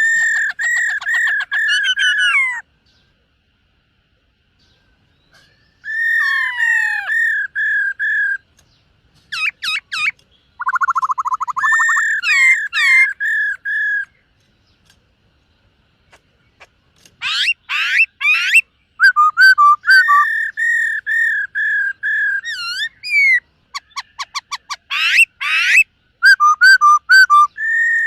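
Black-throated laughingthrush singing: loud whistled phrases of repeated notes, mixed with rapid trills and fast sweeping notes, in bursts separated by pauses of a few seconds.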